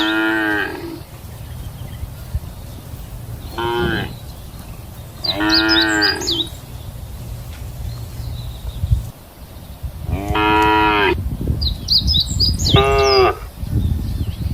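Cattle mooing repeatedly: five separate calls, each under about a second, the longest about ten seconds in.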